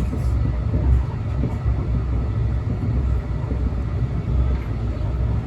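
Steady low rumble of a train.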